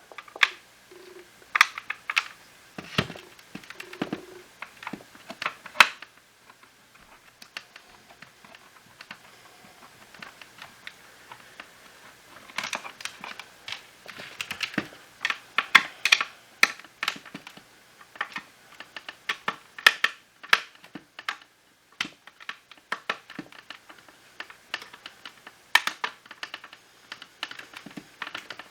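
Irregular sharp clicks and light clatter of hard plastic vacuum parts and small tools being handled during disassembly of a Shark cordless stick vacuum, coming in bunches with quieter gaps between.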